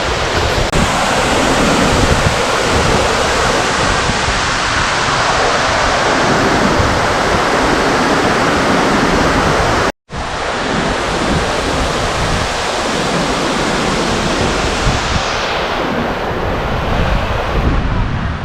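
Waterfall's loud, steady rush of falling water. It breaks off for an instant about ten seconds in, and the hiss goes duller near the end.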